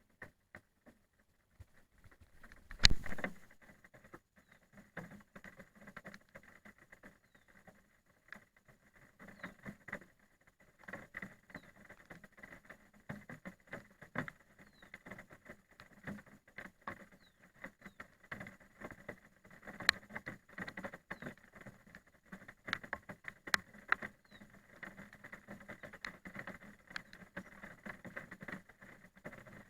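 Rain pattering in irregular drops and ticks, with one loud knock about three seconds in.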